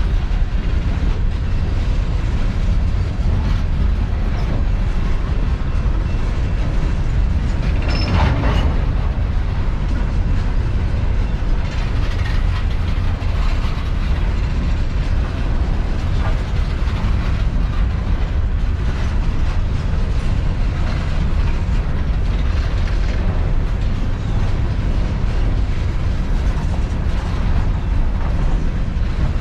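Empty coal train's hopper cars rolling past, a steady rumble and rattle of steel wheels on rail, with a brief louder burst about eight seconds in.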